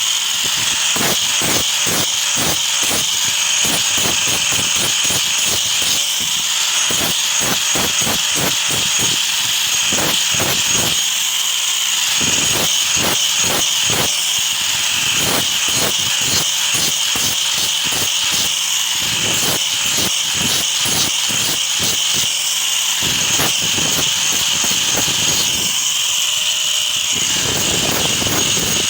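A power tool running steadily with a high whine, with many sharp clicks and knocks throughout.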